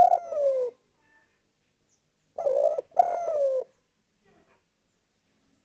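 Spotted dove (derkuku) cooing. The tail of one call falls off in the first second. About two and a half seconds in comes a two-part coo: a short note, then a longer note that falls in pitch.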